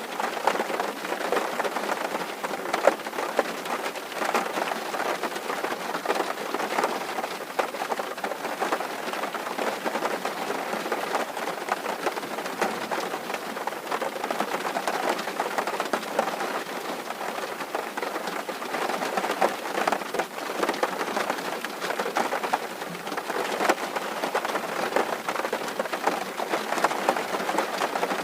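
Steady rain drumming on a tin roof: a dense, continuous patter of drops on sheet metal.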